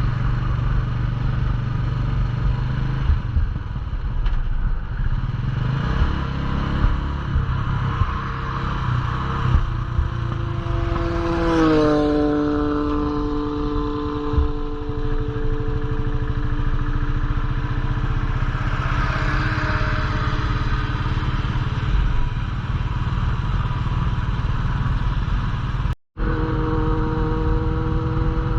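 Royal Enfield Classic 350's single-cylinder engine running steadily while the motorcycle cruises, with a whine that falls in pitch about twelve seconds in and then holds. The sound cuts out completely for a moment near the end.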